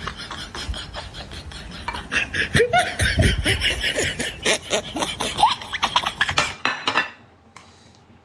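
Close-up eating noises: rapid chewing and lip-smacking clicks, louder from about two seconds in, cutting off abruptly about seven seconds in.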